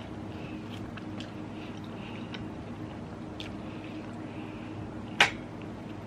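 Close-up eating sounds from a seafood boil: wet chewing, squishing and small mouth clicks, over a steady low hum. One sharp, loud click or crack comes about five seconds in.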